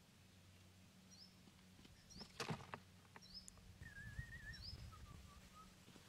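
Faint bird chirps: a short high chirp repeated about once a second, with a wavering whistled call near the middle. A brief knock comes about two and a half seconds in, over a low steady hum.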